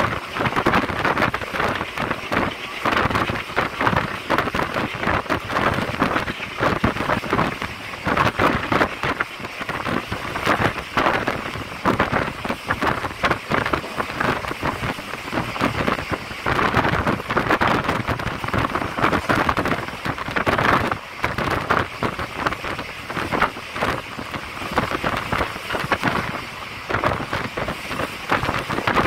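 A passenger train running at speed, heard from on board: a steady, dense rattle and clatter of wheels on the track and the coach, with wind rushing over the microphone.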